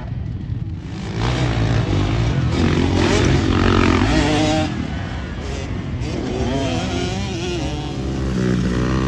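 Dirt bike engines revving on a motocross track, rising and falling in pitch as they pass. The loudest stretch is from about a second in to just before the middle, and another bike's engine climbs near the end.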